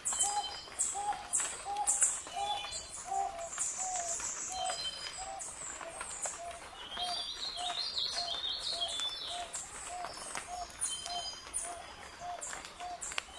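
Forest birds calling: a long, evenly paced series of short low hooting notes, about two a second, with higher chirps and whistles over it.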